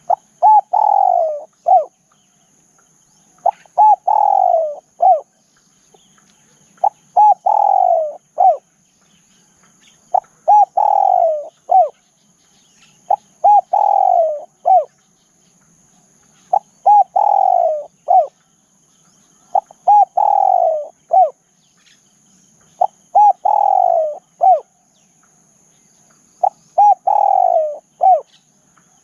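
Spotted dove cooing its song over and over, about once every three seconds: each phrase is a couple of short coos, a longer coo falling in pitch, then a short closing coo.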